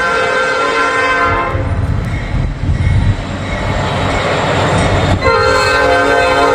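Diesel locomotive air horn on a Norfolk Southern continuous welded rail train, sounding a chord of several notes: one blast that ends about a second and a half in, a low rumble for a few seconds, then a second blast from about five seconds in.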